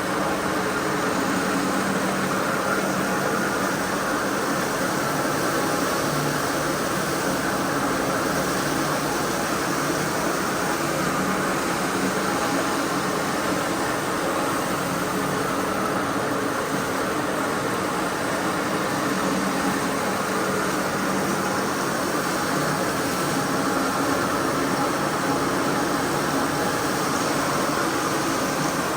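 A motorised carpet-cleaning machine running steadily: a constant hiss with a low hum beneath it.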